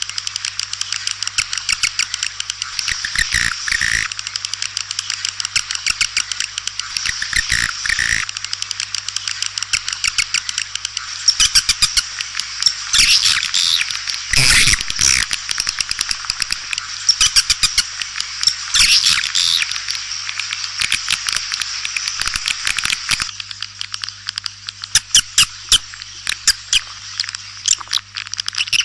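A flock of swiftlets twittering in a dense, continuous chorus of rapid high chirps and clicks, swelling louder around the middle, over a faint steady low hum.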